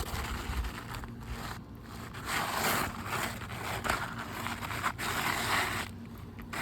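An asphalt shingle being slid back into place under the overlying shingles: a few stretches of gritty scraping and rustling, the longest in the second half, with low wind rumble on the microphone at the start.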